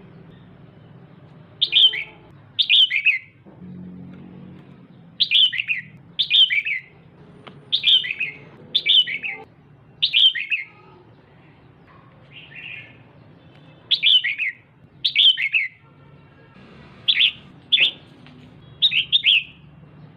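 Female red-whiskered bulbul calling: short, falling chirps, mostly in quick pairs, repeated about every second or two, over a faint low hum.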